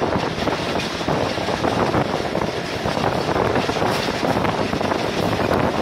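Wind rushing over the microphone together with the steady rumble of a passenger train coach running fast on the track, heard from an open window or door of the coach.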